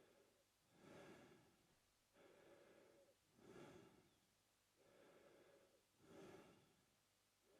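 A man breathing slowly and evenly through his mouth, faint and close, in a steady rhythm of about three full in-and-out cycles.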